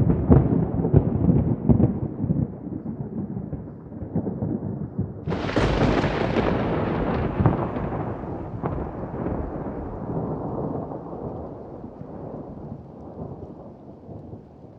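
Thunder with rain: a rumble breaks in suddenly, then about five seconds in a sharper crack follows and rolls away slowly.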